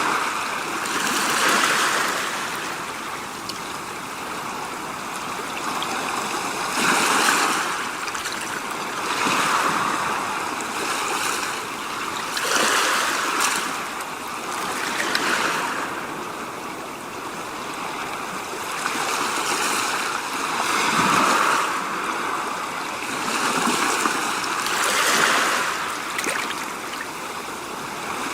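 Rushing water, a steady noisy wash that swells and fades every two to three seconds.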